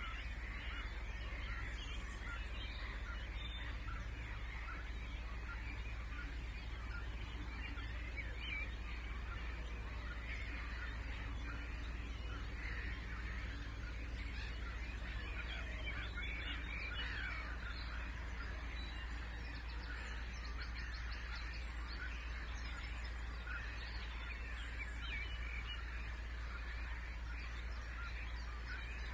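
A dense chorus of many birds calling at once, overlapping short calls without pause, typical of a flock of waterbirds such as geese on a wetland, with a few higher chirps from songbirds over it. A steady low rumble runs underneath.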